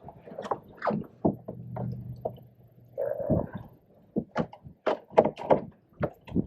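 Irregular knocks, cracks and clunks of sticks being snapped off beaver debris and of wood and paddle bumping against a canoe hull.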